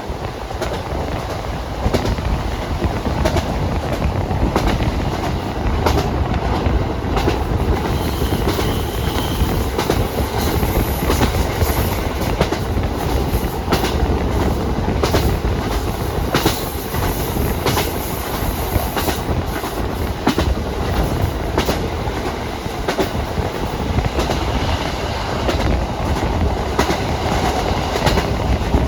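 Train running along the rails: a steady rumble with frequent sharp clicks as the wheels pass over rail joints.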